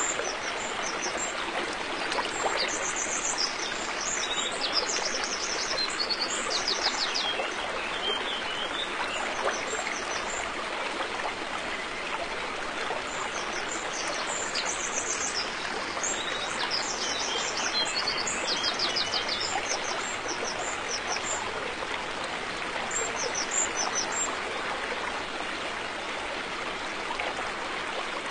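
River water flowing in a steady rush, with small birds chirping and trilling high above it in spells, busiest in the first ten seconds and again about two-thirds of the way through.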